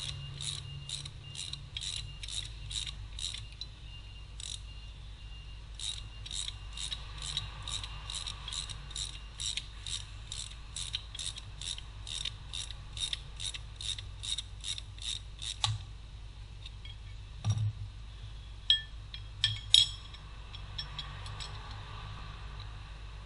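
Hand ratchet wrench clicking in an even run of about three clicks a second, with a pause of a couple of seconds, then a few sharp metal clinks and knocks near the end.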